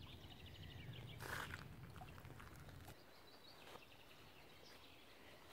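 Faint bird chirps and a quick trill over a low wind rumble on the microphone; the rumble drops away about three seconds in.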